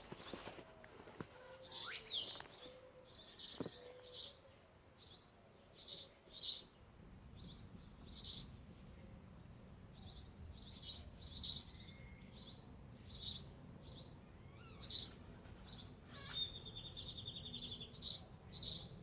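Birds chirping: short, high chirps repeated every half second to a second, with a rapid trill about three-quarters of the way through. A faint low rumble sits under them from about a third of the way in.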